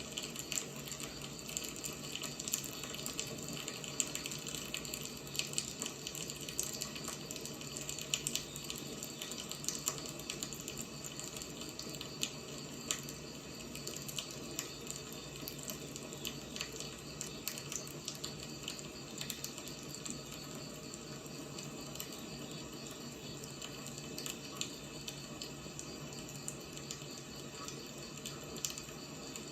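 Firewood burning: a steady hiss with frequent, irregular sharp crackles and pops.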